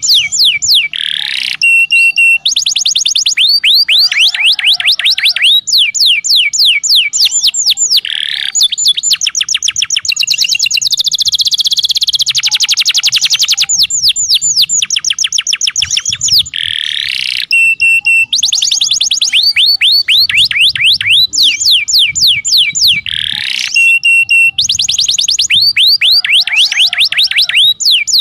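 Domestic canary song: phrase after phrase of fast trills made of rapidly repeated sweeping notes, broken by short steady whistled notes. It is a tutor (masteran) recording played to coax canaries that are reluctant to sing.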